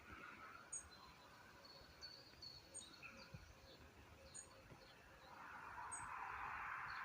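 Quiet natural ambience: a bird repeats a short, very high chirp about every one and a half seconds, with fainter whistled notes between. A soft hiss swells from about five seconds in.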